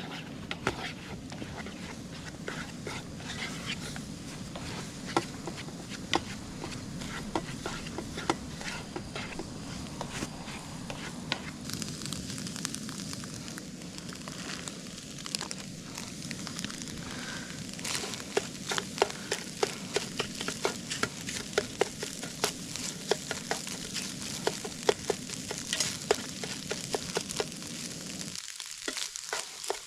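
Food sizzling in a pan, with a steady hiss and many small pops and crackles that come thicker in the second half. A low steady rush underneath stops shortly before the end.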